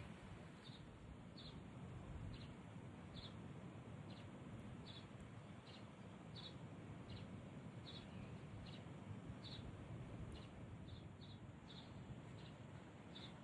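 A bird repeating a single short, high chirp about once every three-quarters of a second, faint over a low outdoor rumble.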